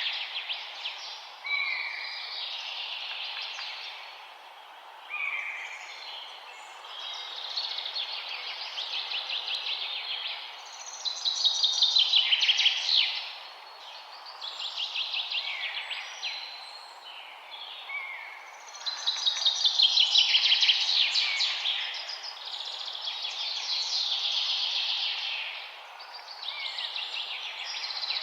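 Several songbirds singing at once: rapid trilled and chirping phrases that swell and fade every few seconds, over a steady faint hiss.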